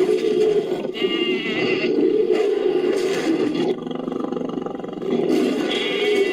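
Designed creature roar made by layering animal and monster roars: a continuous rough growl with higher, pitched cries laid over it about a second in and again near the end, dropping quieter for a moment in the middle.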